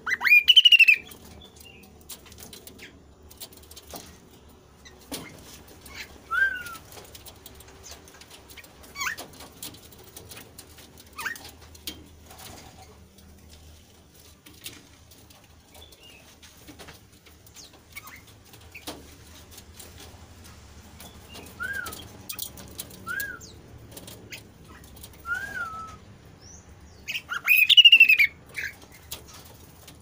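A caged kasu-kasu bird calling: a loud rising call at the start and another near the end, with short chirps and a few brief notes in between. Small clicks and wing flutters come from the bird moving about the cage.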